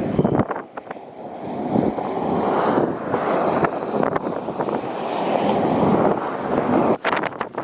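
Strong wind rushing over the microphone in gusts, dropping briefly just under a second in, then building again.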